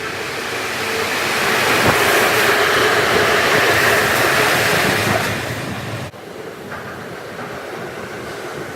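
Train noise played at double speed: a train running through or into a station, swelling to a peak and fading, then cut off abruptly about six seconds in and followed by a lower, steady running noise.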